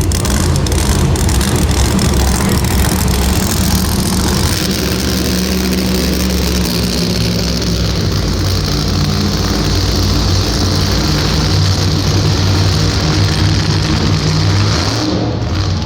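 Monster truck engine running loudly, its low note shifting up and down with the throttle.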